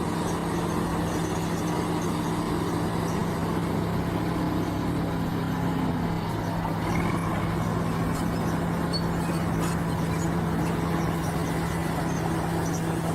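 Heavy earthmoving machine's diesel engine running at a steady, unchanging speed.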